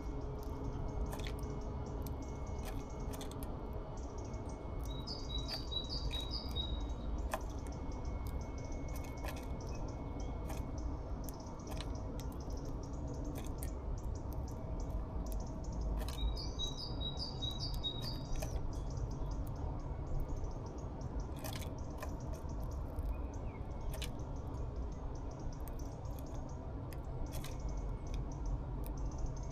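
A small songbird sings twice, each time a short quick phrase of four or five high repeated notes. Scattered sharp clicks and a steady low rumble run underneath.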